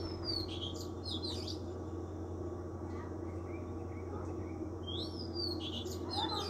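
Birds chirping in two short bursts of quick rising and falling calls, one at the start and another about five seconds in, over a steady low hum.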